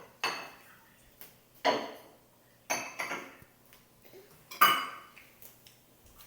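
A spoon clinking and scraping against a dish about six times at uneven intervals during a meal, each strike ringing briefly; the loudest clink comes near the end.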